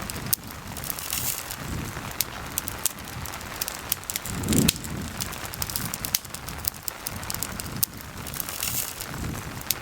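Campfire crackling with many sharp pops over the steady hiss of rain, with a brief low rumble about halfway through.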